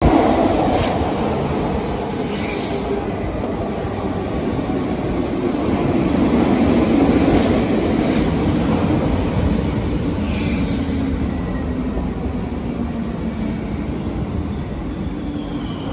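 Regio2N (Z57000) double-deck electric multiple unit rolling along the track: a steady, loud running noise from wheels and traction, broken by a few short high squeals.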